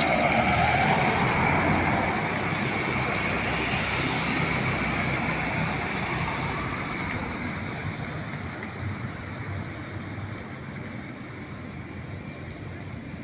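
Road traffic noise: the rumble and tyre hiss of a passing vehicle, loudest in the first two seconds and fading gradually away. A sharp click at the very start.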